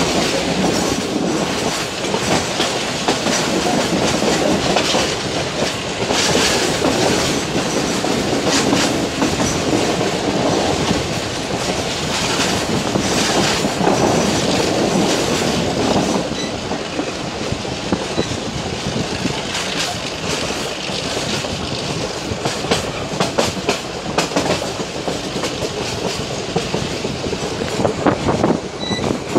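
Metre-gauge passenger train heard from on board while running: steady rumble with the wheels clattering over the rail joints, a little quieter in the second half.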